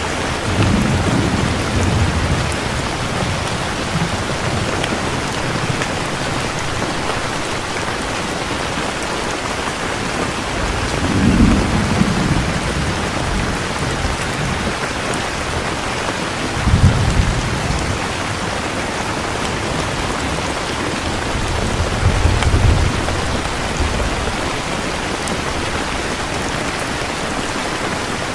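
Steady heavy rain falling, with rolls of thunder rumbling low about four times: near the start, about eleven seconds in, around seventeen seconds and around twenty-two seconds.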